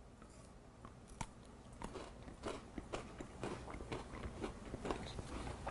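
Mouth chewing a bite of a chocolate bar with crunchy waffle cone pieces: a run of faint, crisp crunches that come more often after the first couple of seconds.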